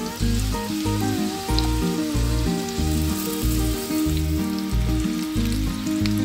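Potato halves sizzling and frying in hot oil in a pan, a steady crackling hiss, under background music with a strong, rhythmic bass line.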